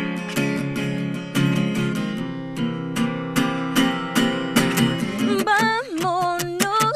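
Acoustic guitar strumming chords in a steady rhythm as an instrumental accompaniment. About five seconds in, a woman's singing voice comes in over the guitar.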